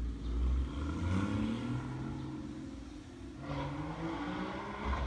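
Porsche 981 Boxster S's flat-six with sport exhaust accelerating toward the listener, its pitch climbing twice as it revs, growing loud as the car draws right up close near the end.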